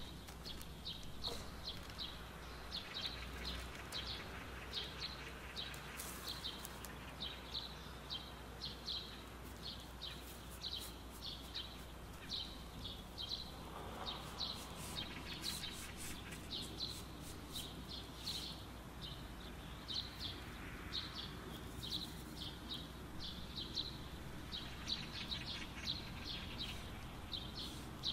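Small birds chirping over and over, short high chirps coming in quick runs. About halfway through, and again a little later, there is soft rustling of biscuit crumbs being pressed down into a cake pan.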